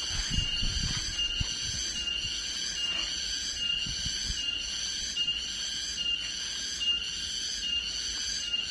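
Insects calling in a steady chorus, a high buzzing that pulses evenly about one and a half times a second with a short piercing note in each pulse. Low dull thumps sound now and then underneath, most in the first second.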